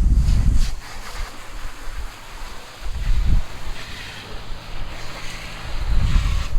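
Water spraying from a hose onto a truck's body, rinsing off road salt: a steady hiss of spray. Gusts of wind buffet the microphone with a low rumble at the start, about three seconds in and near the end.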